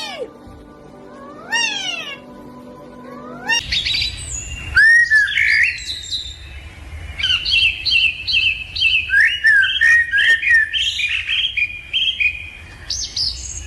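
A bird chirping and whistling in quick, varied calls, after two meow-like calls that each rise and fall in pitch.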